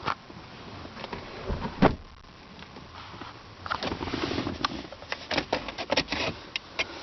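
Handling noise inside a car: scattered clicks and knocks, a single thump just before two seconds in, then rustling with a quick run of clicks through the middle and latter part.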